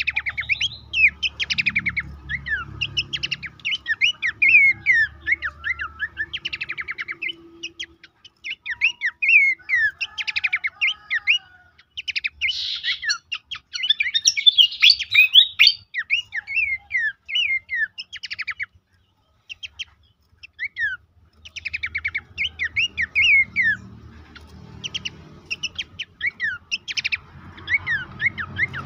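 Song of the pelanduk semak (Horsfield's babbler) as used for a training recording: quick runs of varied chirps and falling whistles, with a pause of a couple of seconds about two-thirds through. A low background rumble sits under the song near the start and again near the end.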